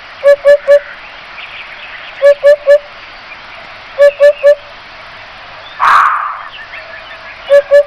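A bird calling: groups of three short, low hooting notes repeated every two seconds or so, four times, with one harsh, louder call about six seconds in.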